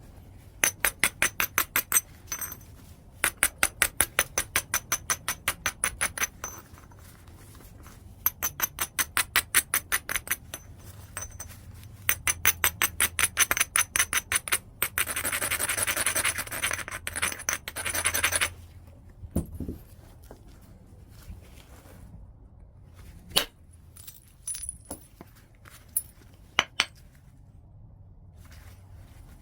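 White chert being worked with a knapping tool: runs of sharp stone-on-stone clicks, about seven a second, then a few seconds of scraping along the edge, and near the end a few single clicks.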